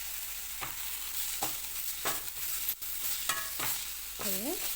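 A spatula stirring and scraping grated gooseberry in a pan of hot oil, with a steady sizzle of frying under sharp scrapes that come about every half to three-quarters of a second.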